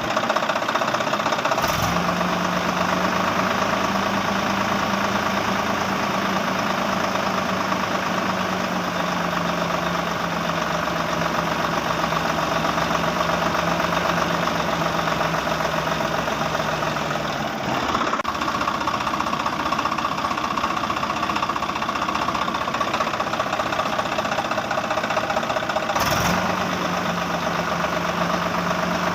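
A small motor or engine running steadily with a low, even hum. Its pitch drifts slightly lower and it is broken by sharp clicks or edits three times, the low hum dropping out for several seconds in the middle.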